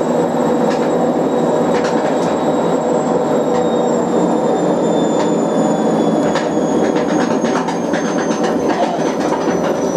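Whirlpool WWDC 7210/1 washing machine running, likely spinning, with a dense clattering and knocking throughout and a faint high whine slowly falling in pitch. The owner suspects worn suspension behind the noise.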